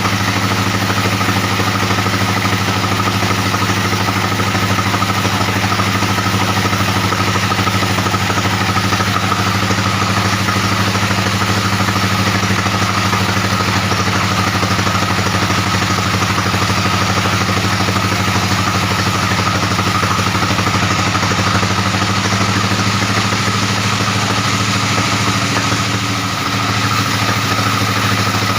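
A 42-inch sawmill bandsaw running with a steady, even hum, with a brief dip in level near the end.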